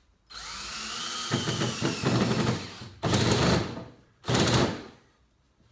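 Power drill spinning up with a rising whine, then working into wood, followed by two short, loud bursts of running.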